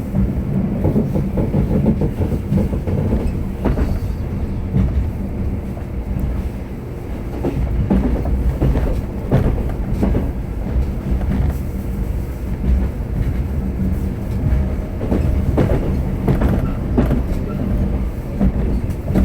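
Metro train running between stations, heard from inside the carriage: a steady low rumble of wheels and running gear, with irregular clacks as the wheels pass over rail joints.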